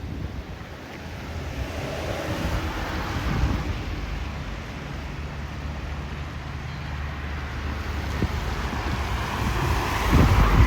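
Street traffic: a motor vehicle approaching and passing close. Its engine hum and tyre noise build steadily to a peak near the end.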